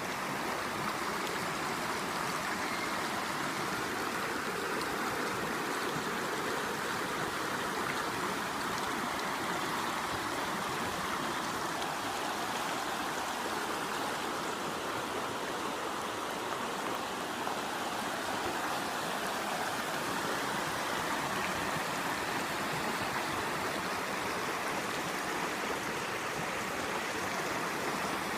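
River water rushing steadily over rocks, a continuous even rush.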